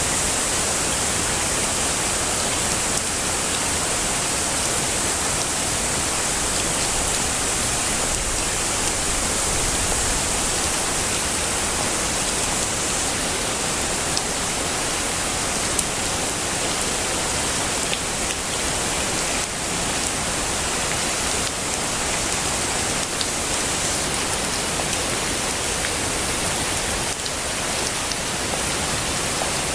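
Heavy rain falling steadily, a dense even hiss with a few sharper drop ticks here and there.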